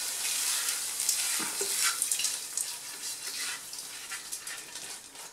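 Hot sofrito of onion, garlic and peppers sizzling as it is scraped from a frying pan into a pot of black beans; the hiss fades away steadily.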